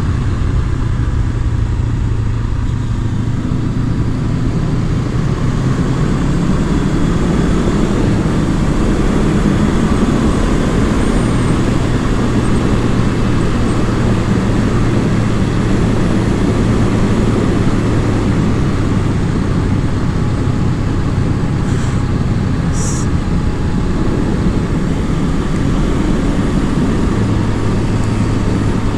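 Honda CB500F parallel-twin engine running under way, with road and wind noise, its steady note shifting a few times as the revs change.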